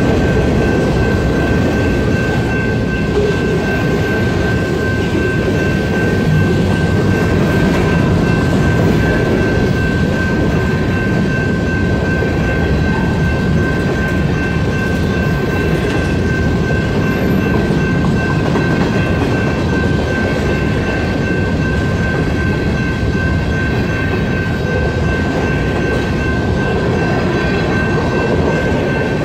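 Freight cars of a CSX manifest train rolling past at a grade crossing: a dense, steady rumble and clatter of wheels on rail. Over it a single high tone rings continuously, which fits the crossing's General Signals type-2 electronic bell sounding while the signal is activated.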